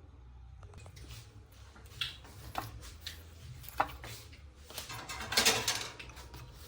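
Kitchen handling sounds: a few light clinks and knocks of dishes or utensils, and a brief louder rush of noise about five seconds in, over a steady low hum.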